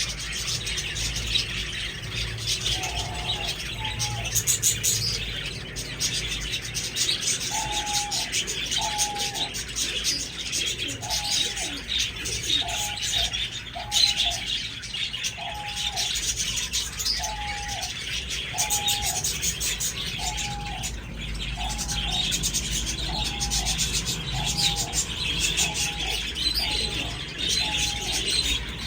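A flock of budgerigars chattering and chirping without a break. From about a quarter of the way in, a low cooing call repeats roughly once a second.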